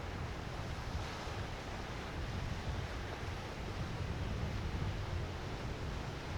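Wind buffeting the microphone over the steady wash of surf, a low rumble with no engine tone standing out.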